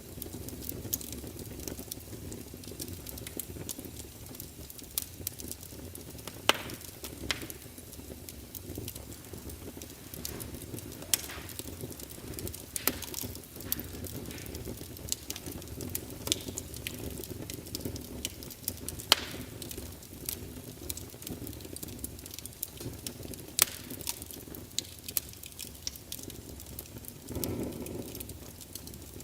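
A fire crackling: a steady low rumble with sharp, irregular pops and snaps scattered throughout, and a short louder swell of the rumble near the end.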